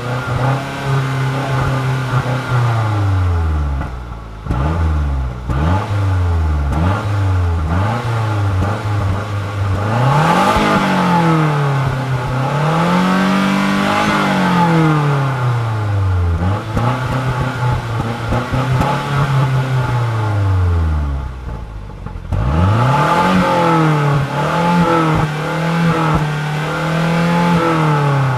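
Mazda 6 MPS's turbocharged 2.3-litre four-cylinder revved repeatedly, standing still. First come a few quick blips of the throttle, then longer climbs in pitch that fall back to idle, and near the end the revs are held high for several seconds and waver slightly.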